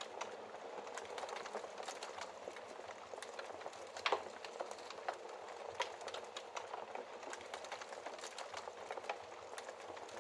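Wood fire burning in a fireplace: a steady low hiss of flames with irregular small crackles and pops, one louder pop about four seconds in.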